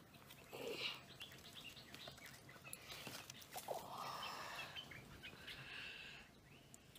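Faint bird chirps over quiet outdoor ambience, with soft rustling from a person shifting about: once briefly about a second in, and again for longer from about four to six seconds in.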